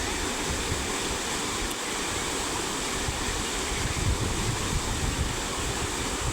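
Steady rush of fast-flowing floodwater, with wind buffeting the microphone in uneven low rumbles.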